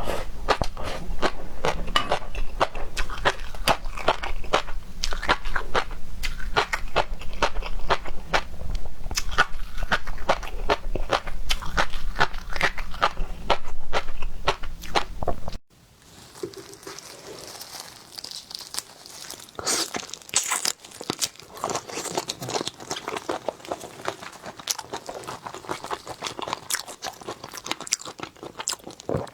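Close-miked eating of seafood: wet chewing and crunching with rapid clicks. About halfway through the sound cuts and drops, leaving quieter, sharper crunches.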